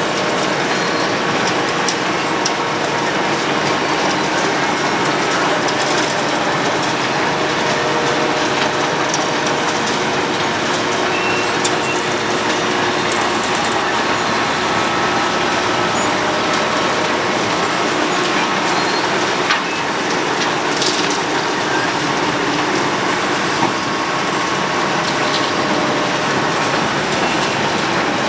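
Road planer (cold milling machine) running steadily while it works the road: a constant loud mechanical din with faint steady whines over it.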